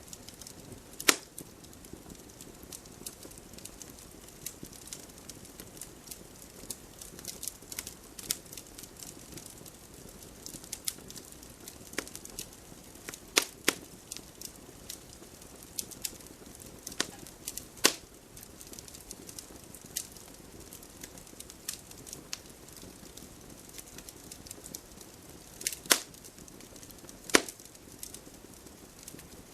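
Wood fire crackling: a steady low hiss with many small irregular crackles and a few sharp pops, the loudest about a second in, around the middle, and twice near the end.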